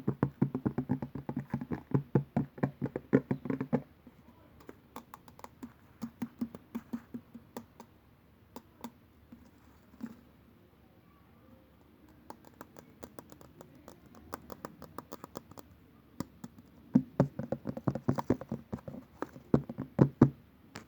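Rapid light tapping in quick runs, dense for the first few seconds, sparser and scattered in the middle, then dense again near the end.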